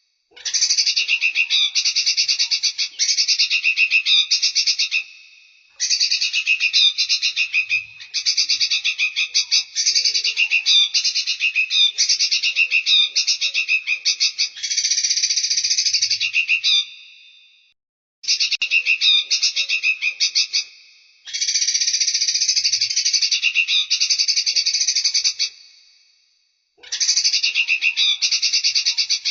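Small songbird song from a bird-training track: bouts of fast, high chattering trills, each several seconds long, separated by short pauses of about a second.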